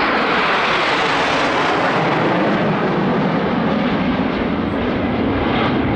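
BAE Hawk T1 jet trainers flying past in close formation: a loud, steady rush of Adour turbofan jet noise.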